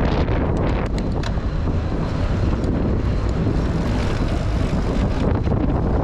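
Steady wind rumble on the microphone of a camera carried on a moving bicycle, over street traffic, with a few short ticks about a second in.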